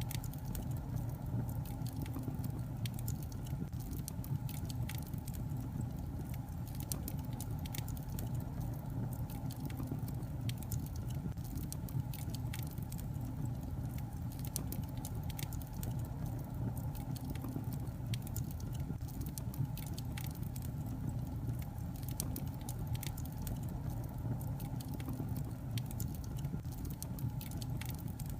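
Wood logs burning in a fireplace: a steady low rumble of the fire with many small, irregular crackles and pops throughout.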